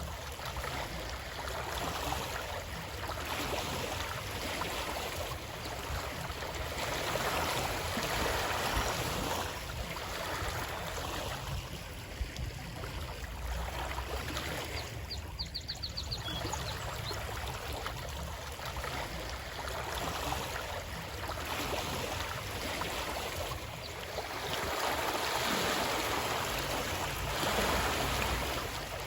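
Running water of a stream, a steady rushing that swells and ebbs every few seconds. About halfway through comes a brief run of rapid high ticks.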